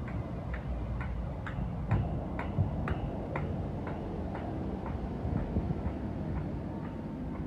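British Rail Class 318 electric multiple unit at a platform: a steady low rumble with a regular ticking, about two ticks a second.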